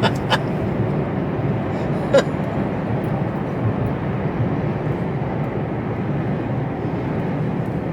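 Steady in-cab road and engine noise of a Mercedes Actros truck driving along, with one brief sharp sound about two seconds in.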